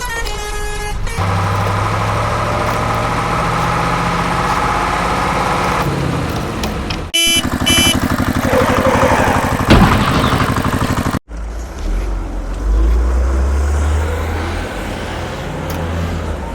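Motor vehicle engine sounds spliced together with abrupt cuts. A steady engine hum comes first. After a sudden cut comes a fast rattle with two short high tones and a sharp knock. After a second cut comes a low rumble.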